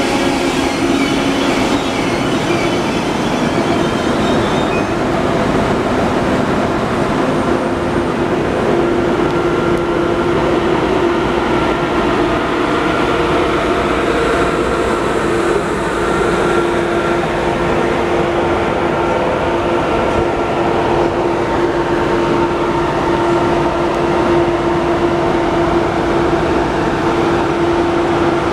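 Train running steadily on the track for the whole stretch: even rolling noise with a steady hum held at several pitches.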